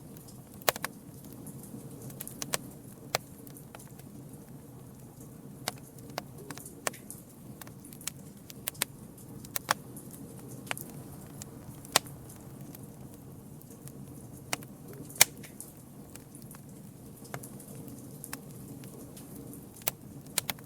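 Campfire burning, with sharp, irregular pops and crackles of burning wood over a steady low rush of flame.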